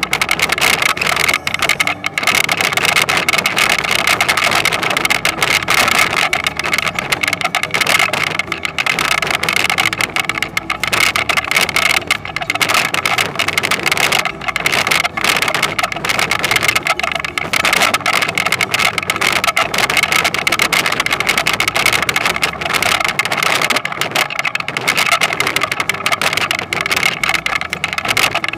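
Toyonoki potato harvesting machine running steadily, its engine noise mixed with dense, rapid mechanical clatter.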